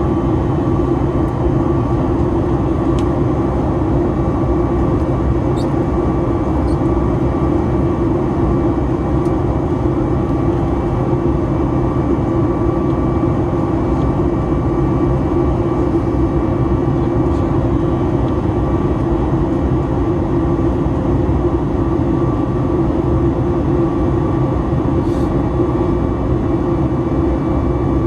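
Steady in-flight cabin noise of a Boeing 737-9 MAX: a constant rumble and rush of its CFM LEAP-1B turbofans and the airflow, with a few steady hums through it and a couple of faint ticks.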